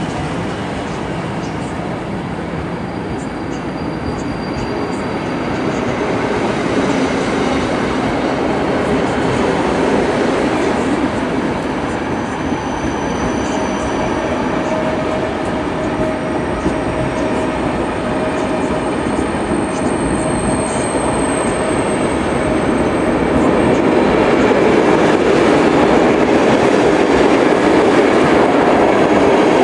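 Passenger train's coaches rolling past a platform: steady wheel and rail noise with clacking over rail joints, and thin wheel squeals around the middle, growing louder toward the end.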